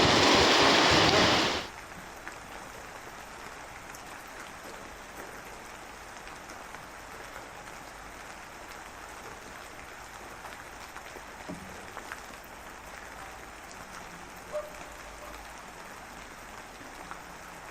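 Rain: a loud rushing downpour for the first second and a half cuts off abruptly, leaving steady light rain with scattered drip ticks.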